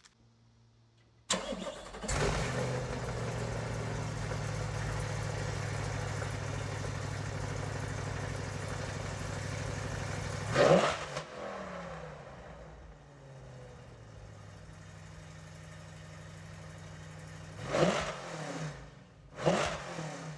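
2021 C8 Corvette's 6.2-litre V8 starting about a second in and idling fast. About halfway it gets one quick rev, then idles lower and quieter, with two more quick revs near the end. It runs through headers with the catalytic converters deleted and the factory exhaust still on.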